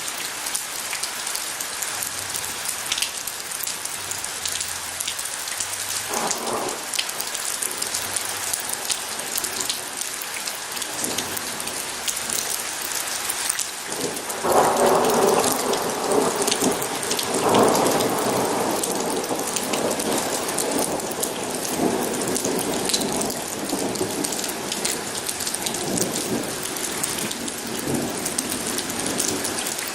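Steady heavy rain with a roll of thunder that builds about halfway through, is loudest a few seconds later and slowly dies away; a short, fainter rumble comes earlier.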